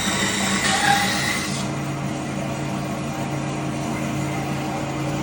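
Tannewitz TR2014W vertical bandsaw cutting through a small aluminum piece, with a high hissing cutting noise. The cutting noise stops suddenly about a second and a half in, and the saw runs on with a steady hum.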